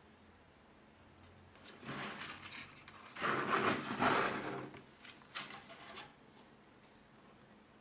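Handling noise as a wireless keyboard is picked up and moved: rustling and scraping for about three seconds, then a few light clicks.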